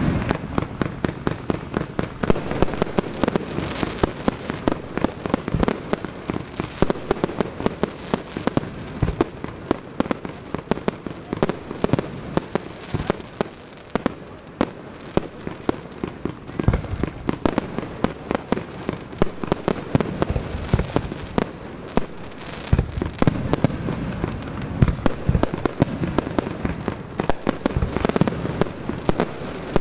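Fireworks display: aerial shells bursting in a rapid, unbroken barrage of sharp bangs and crackling, several reports a second.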